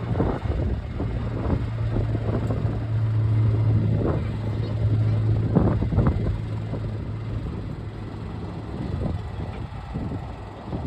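Engine of farm machinery running steadily with a low hum, which grows weaker after about seven seconds.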